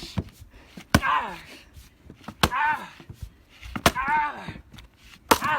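Axe blows splitting a green oak log: four sharp chops about a second and a half apart, the log needing several strikes rather than one. A short vocal cry follows each blow.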